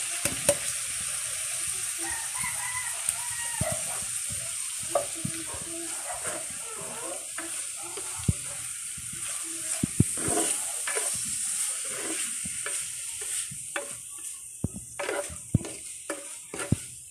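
Ham pieces and sliced mushrooms frying in a pan with a steady sizzle while a spatula stirs them, scraping and tapping against the pan. The sizzle dies down over the last few seconds.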